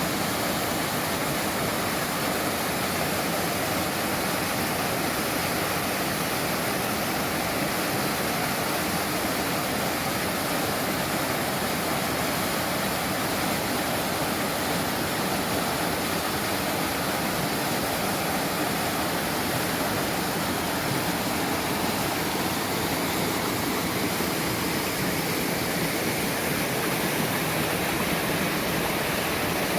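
Mountain stream water rushing and splashing over rocks, steady and unbroken.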